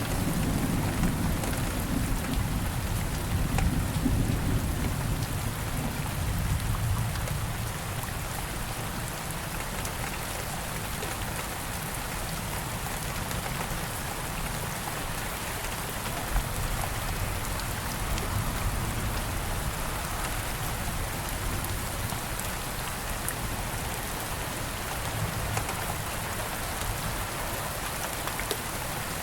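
Steady rain falling, with a low rumble of thunder dying away over the first several seconds.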